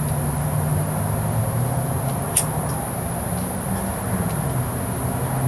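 Steady low hum of an idling engine, with a faint constant high-pitched whine and one short click about two and a half seconds in.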